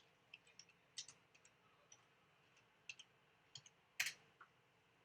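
Faint, irregular clicks of typing on a computer keyboard, a dozen or so scattered keystrokes with one louder click about four seconds in.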